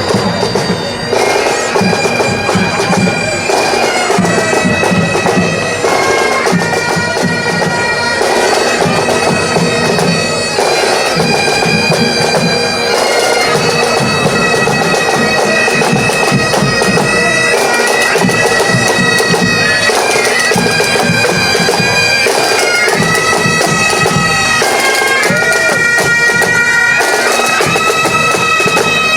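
Bagpipes playing a tune over a steady drone, the melody notes moving in steps.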